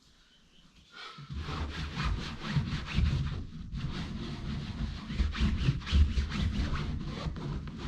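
Damp cloth being rubbed hard back and forth over a chair, in quick repeated strokes of about three a second that start about a second in.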